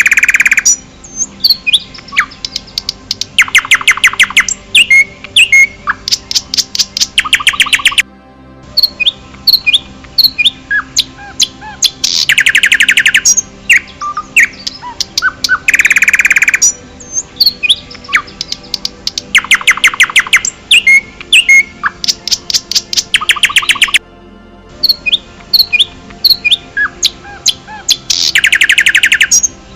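Songbirds chirping, with a fast rattling trill recurring every few seconds. The same sequence of calls repeats about every eight seconds, a looped birdsong recording.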